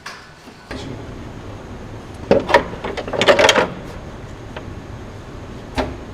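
Assembly work on a car production line: a quick run of clacks and knocks from parts being handled and fitted, then a single knock near the end, over steady factory hall noise.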